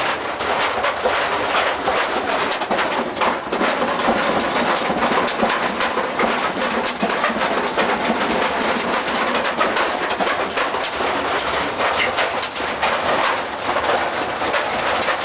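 Washing machine running, a loud, steady rattling churn with many small clicks.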